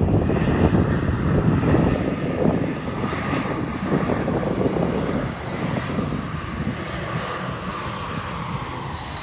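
Jet airliner's engines rumbling as it passes and moves away, the sound slowly fading, with a faint tone sliding gently down in pitch.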